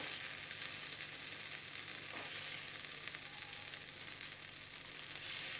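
Boiled egg halves and onion masala sizzling steadily in a nonstick frying pan as a steel spoon turns the eggs over.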